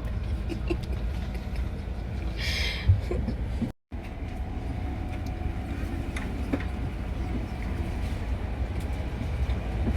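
Steady low rumble inside an intercity train carriage, with a short hiss about two and a half seconds in and a single knock just after. The sound drops out for a moment near four seconds, then the rumble resumes.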